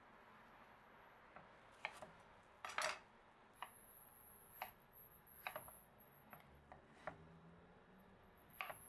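Kitchen dishes and utensils clinking and knocking: scattered light clatters, the loudest a short rattle about three seconds in.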